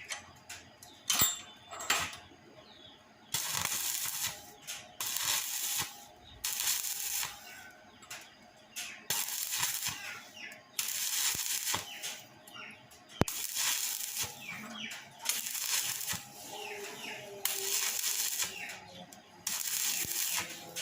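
Repeated rasping scraping strokes on metal, about one every one to two seconds, with a few sharp metallic clicks and taps between them.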